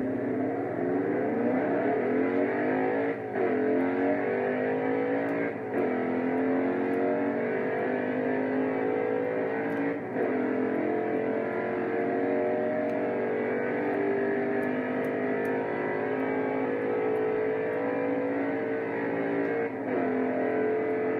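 Mercedes-Benz SLK55 AMG's V8 under hard acceleration, its note climbing steadily in pitch through the gears. There are four upshifts, about 3, 6, 10 and 20 seconds in. At each one the sound dips briefly and the pitch drops, then it climbs again, more slowly in each higher gear.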